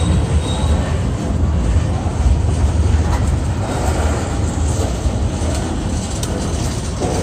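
Freight train cars, gondolas and covered hoppers, rolling past close by: a steady low rumble of steel wheels on the rails, with a few light clicks.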